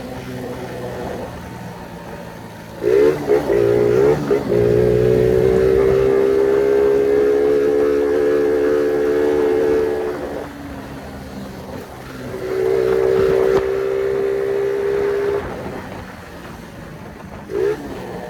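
Phoenix 50cc moped engine revving hard. It climbs with quick throttle blips a few seconds in and holds a high steady pitch for several seconds. It eases off, pulls high again for about three seconds, and gives one short blip near the end.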